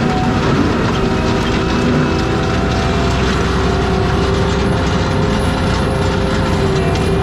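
ASV RT-120F compact track loader running with its forestry mulcher head: a loud, steady machine drone with a steady whine over a dense rattling clatter.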